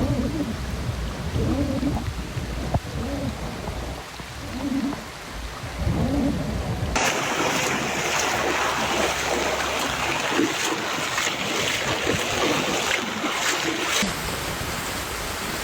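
Rain and running floodwater, in three short clips cut together. The first has a heavy low rumble; from about seven seconds in comes a brighter, even hiss of rain and water.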